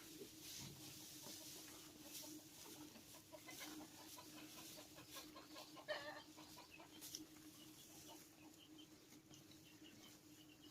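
Chickens clucking faintly, with short calls scattered throughout and one louder call about six seconds in.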